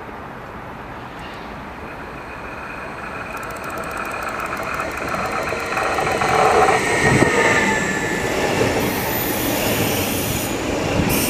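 Go-Ahead Stadler FLIRT electric multiple unit approaching and running past, its rumble growing steadily louder as it nears. High-pitched whining tones grow with it, and lower tones slide down in pitch as it comes alongside.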